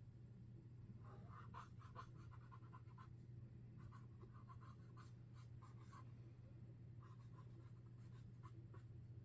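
Sharpie Creative Marker tip scratching across paper in quick, short strokes, faintly. The strokes come in three runs of drawing with brief pauses between them.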